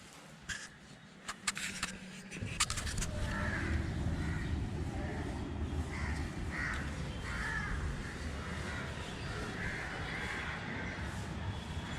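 Crows cawing repeatedly, a short call every second or so, over a low steady rumble that starts a couple of seconds in, with a few sharp clicks at the start.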